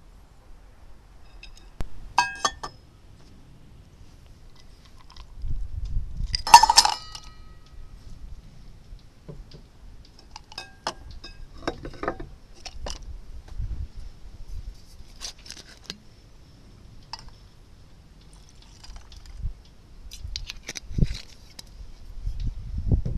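Tableware clinking: a few sharp clinks of glass or crockery, the loudest about seven seconds in with a brief ring, among scattered lighter taps and knocks.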